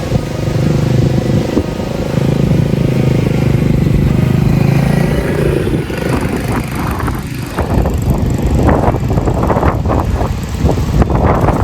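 Small mini bike engine running at a steady speed, then falling away about five to six seconds in.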